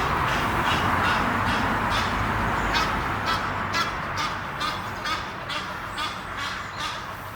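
Egyptian geese calling, a rapid series of short, harsh honks at about two to three a second. Under them a broad rushing noise fades away over the first half.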